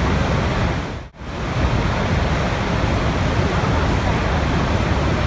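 Steady rushing water, a dense even hiss with a strong low rumble. About a second in it briefly fades out and comes straight back, as at an edit join.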